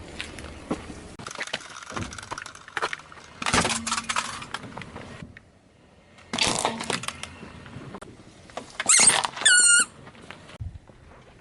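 Crunching and crackling as objects are crushed under a car's tyres, with louder bursts of crackling about three and a half and six and a half seconds in. Near the end comes a short, high, wavering squeak.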